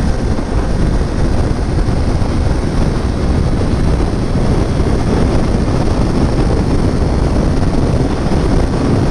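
Steady loud wind rush buffeting the microphone on a Kawasaki Ninja 400 ridden at highway speed, with the bike's running mixed into the roar.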